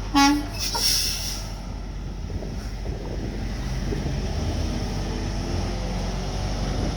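A short blast of a vehicle horn just after the start, then the steady low rumble of a tractor-trailer's diesel engine as it pulls a 53-foot trailer through a turn.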